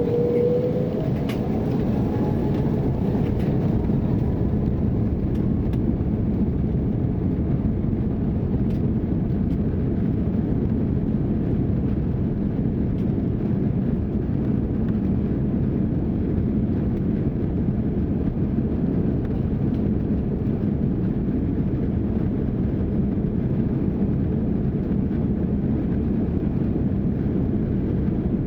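Airbus A330-300 cabin noise as the engines spool up for the takeoff roll: a rising whine in the first few seconds, then a steady, loud, low rumble.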